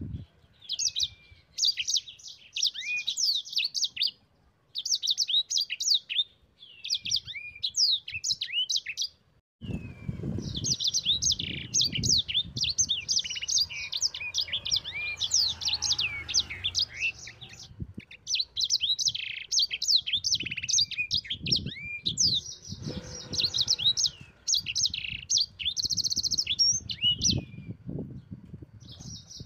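Sanger songbird singing a fast, continuous twittering song of high chirps and quick sweeping notes, in bursts of a few seconds broken by short pauses. A low rumbling noise runs under the song through much of the second half.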